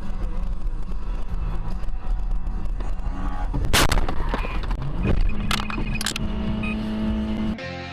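Dashcam audio of a car crash: a loud, rough rumble with a sharp bang about halfway through and two more knocks a little later. A steady tone then holds until the sound cuts off suddenly near the end.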